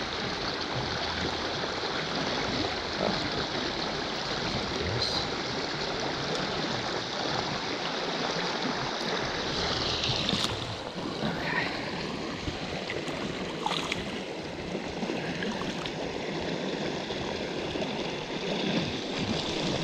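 Fast creek water rushing steadily over rapids. About halfway through the sound thins a little, and a few faint clicks come through.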